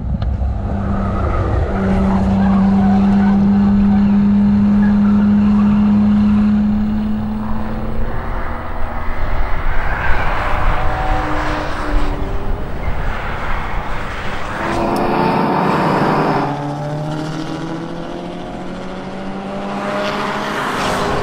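Twin-turbo 3.6-litre V6 of a Cadillac ATS-V coupe, fitted with a downpipe and tuned intake, running hard on a race track. It holds one steady high note for several seconds, then rises and falls in pitch through shifts and braking, drops quieter for a few seconds and builds again near the end.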